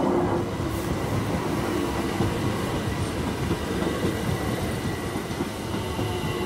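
London Overground Class 378 Electrostar electric train passing close by over a level crossing: the wheels rumble over the rails and the crossing, under a steady whine.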